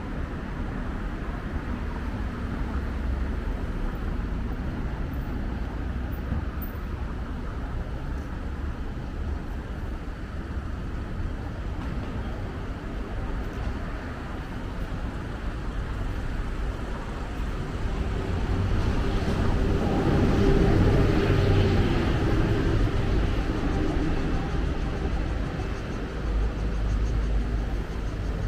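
City street traffic: a steady low rumble of passing cars, swelling as a vehicle passes close by about two-thirds of the way through, its engine drone rising and then fading.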